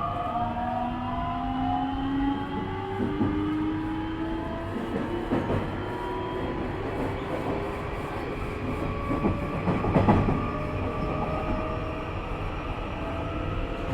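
Interior of a Nishitetsu 3000 series electric train's motor car under way: wheel and rail rumble, with the traction motor whine rising slowly in pitch as the train gathers speed. A louder rattle comes about ten seconds in.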